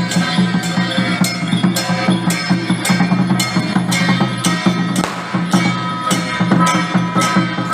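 Loud procession percussion music: sharp struck beats roughly two or three a second over steady ringing tones and a low hum, with a brief noisy crash about five seconds in.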